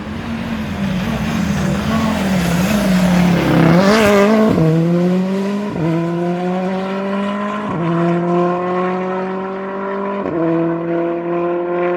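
A rally car passes flat out, loudest about four seconds in, then accelerates away through four upshifts, the engine note climbing in each gear and dropping sharply at each change.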